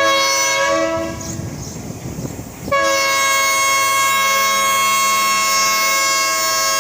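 Locomotive horn sounding its multi-tone chord for the train's departure: a short blast that fades within about a second, then a long, steady blast starting near the middle and held on.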